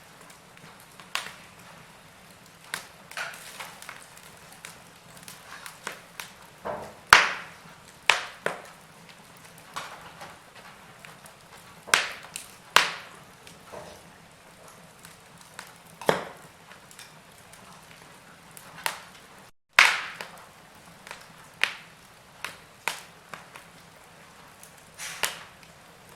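Wood fire in a fireplace crackling: irregular sharp pops and snaps over a low steady hiss, with a momentary dropout about twenty seconds in.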